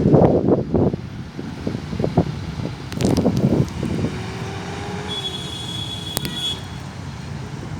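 Gusty wind buffeting the microphone in irregular low rumbles, over street traffic; a thin high steady tone sounds for about a second and a half near the middle.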